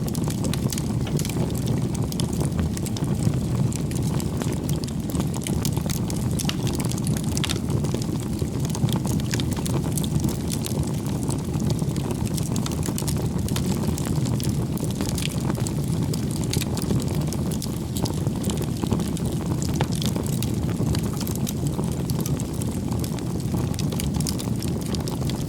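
Firewood burning in a bonfire: a steady low rush of flame with frequent sharp crackles and pops from the wood.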